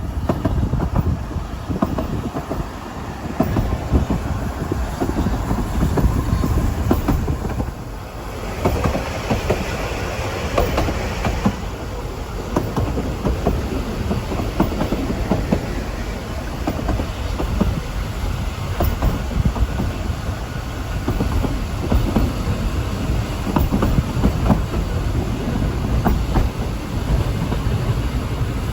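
Ffestiniog Railway narrow-gauge train running, with a steady rumble and the wheels clattering over rail joints. About eight seconds in there is a brief lull, then a few seconds of brighter hiss.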